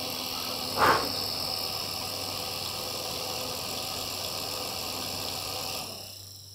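Small electric motor spinning a 3D-printed fan rotor, a steady hum with high whining tones, winding down and fading out about six seconds in as its speed is set to zero. A short burst of noise about a second in.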